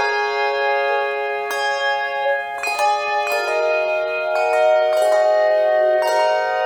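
Slow instrumental music of ringing struck or plucked notes sounding in chords. A new chord strikes every second or so and the notes ring on between them, all in the middle and upper register with no bass.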